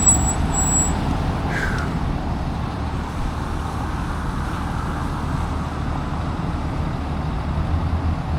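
Steady wind and road rumble on a cyclist's camera microphone while riding, with road traffic going by. A short falling squeak about a second and a half in.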